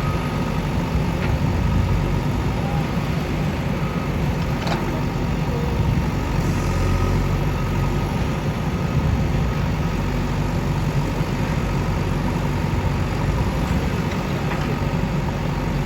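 Steady low engine rumble of a heavy vehicle running at an even idle, with no revving.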